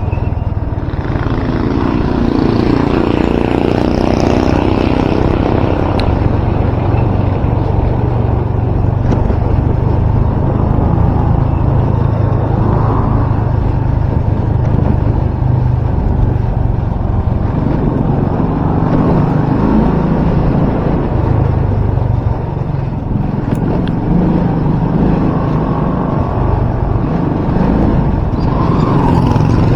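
Loud, steady wind noise buffeting a microphone that has been wrapped in electrical tape, heavy in the low end; the tape wrapping has not cut the wind noise down.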